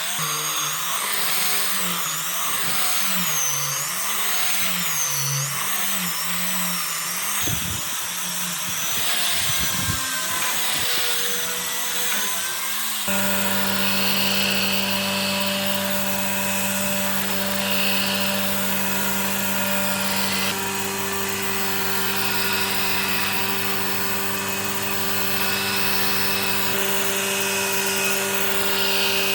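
Electric woodworking power tools running, motor pitch wavering up and down as the tool is loaded for about the first half. An abrupt cut then gives a steady motor hum with several held tones, changing again abruptly about two-thirds of the way in.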